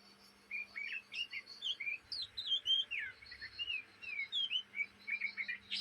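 Young oriental magpie-robin (kacer) chattering: a fast, continuous run of short whistled chirps and quick slurred notes rising and falling in pitch.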